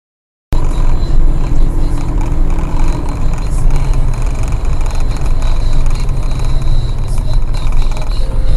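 Car driving: a steady engine and road rumble that starts abruptly about half a second in, after silence.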